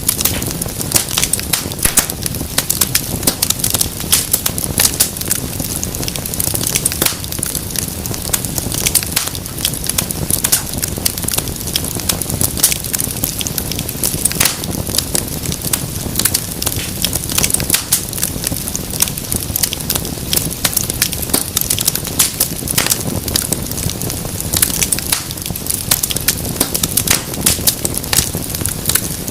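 Wood fire burning in a fireplace: dense, irregular crackles and pops over a low steady rumble of the flames.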